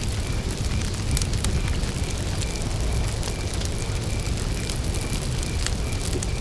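Campfire burning with a low steady rumble and scattered sharp crackles and pops of burning wood. A high-pitched chirp repeats about three times a second behind it.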